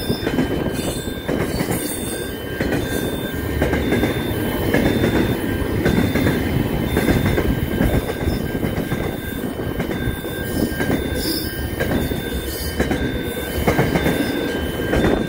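Container freight train passing close at speed, its wagons rumbling over the rails with a faint steady wheel squeal. A high two-note electronic beeping alternates evenly, about twice a second.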